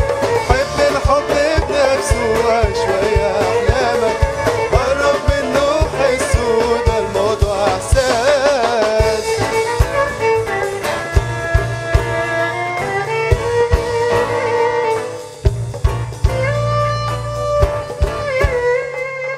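A live band playing an instrumental passage of a folk-style song: a steady drum beat under a melodic lead line. The lead dips briefly about two-thirds of the way through, then picks up again on held notes.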